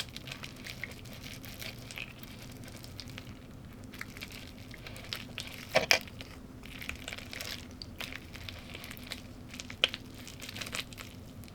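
Close-miked eating: chewing and crunching of food in many small, irregular bursts, with a sharp clink, like cutlery on a plate, about six seconds in.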